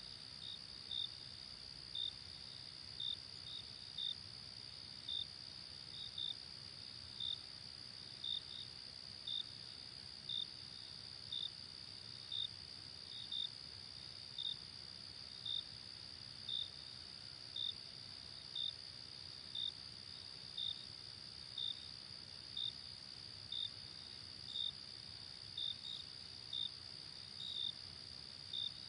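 Night insect chorus like crickets: a continuous high-pitched trill with a short, brighter chirp repeating about once a second, now and then doubled.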